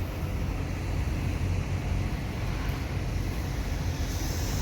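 Semi truck's diesel engine idling with a steady low rumble, with wind buffeting the microphone.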